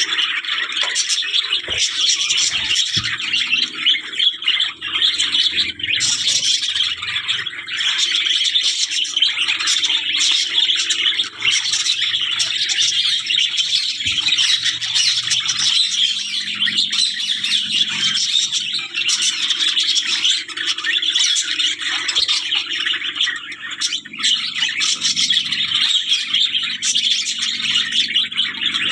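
Many small cage birds chirping and chattering at once in a continuous, dense chorus, with an occasional squawk.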